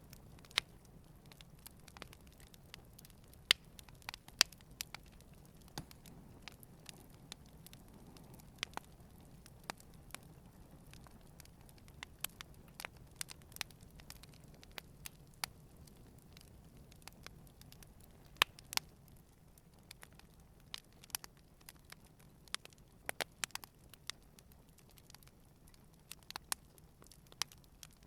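Wood campfire crackling: irregular sharp pops and snaps, scattered unevenly, over a faint steady low rumble of the flames.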